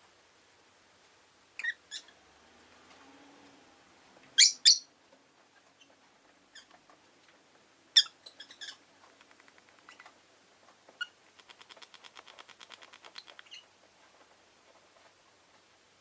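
Rosy-faced lovebirds giving short, shrill calls, the loudest a quick pair about four and a half seconds in, with a run of fast, soft chattering near twelve seconds.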